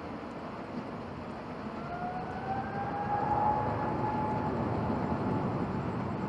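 A Boeing 777-200ER's twin jet engines at takeoff: a broad roar that grows louder from about two seconds in. Over it, a whine rises in pitch and then holds steady, as the engines spool up to takeoff thrust.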